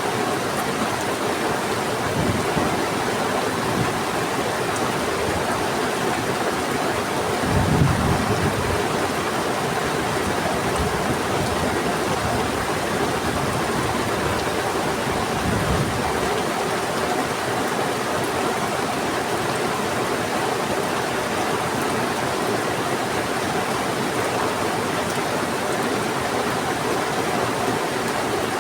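Heavy rain falling steadily over a rushing river. A low rumble of thunder comes about eight seconds in, and a fainter one around sixteen seconds.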